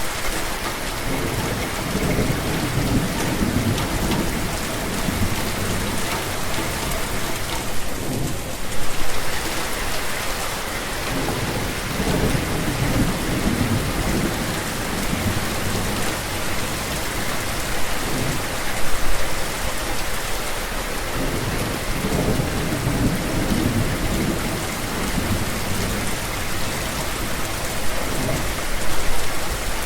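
Steady heavy rain hissing, with low rolling rumbles of thunder that swell up several times.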